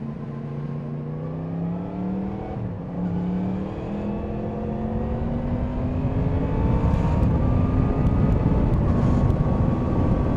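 Yamaha MT-10SP's crossplane inline-four engine accelerating, its pitch rising, dropping once at a gear change about three seconds in, then climbing again. A low rush of wind builds and grows louder in the second half as speed rises.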